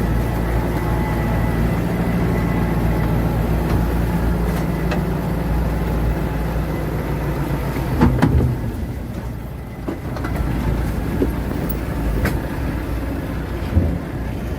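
Heavy diesel engine of earthmoving equipment running steadily, with a sharp clank about eight seconds in and another about four seconds later.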